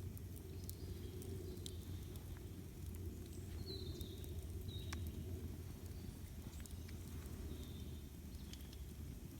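Campfire crackling, with scattered sharp pops over a low steady rumble, while a bird gives a few short high chirps.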